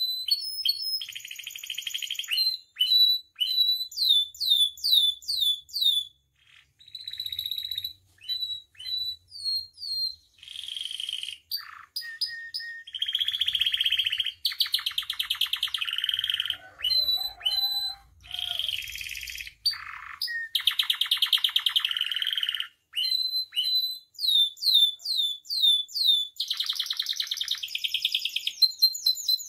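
Domestic canary singing a long, varied song. Runs of quick, sharp down-slurred whistled notes, several a second, alternate with buzzy rolling trills lasting a second or two each.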